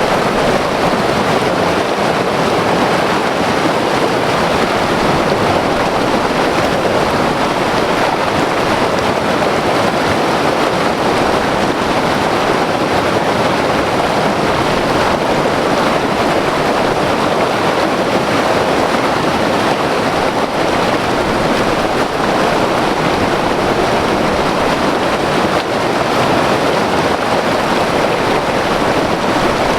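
White water river rushing over rocks: a loud, steady roar of turbulent water without a break.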